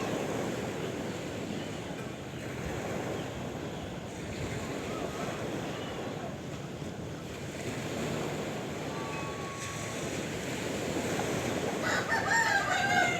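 Sea waves washing continuously on a shore, with a short animal call near the end.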